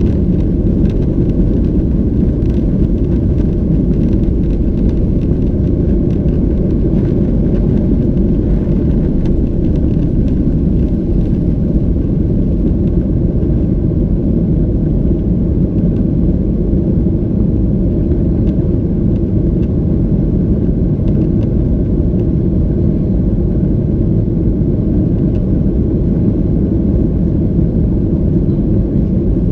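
Boeing 737-800 cabin noise: a steady low rumble of the engines and airflow heard from inside the cabin, with faint light rattles.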